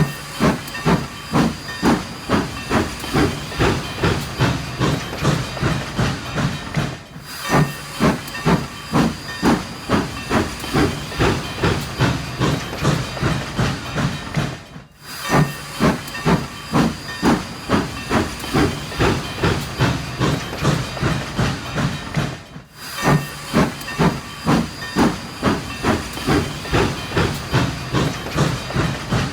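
Steam train sound effect: rhythmic chugging puffs with hiss, a few a second. It breaks off and starts over about every eight seconds.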